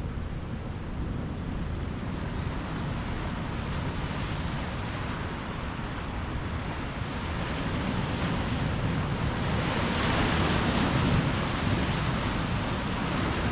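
Ocean surf: waves breaking and washing up the shore, one wave swelling to its loudest about ten seconds in and then easing off.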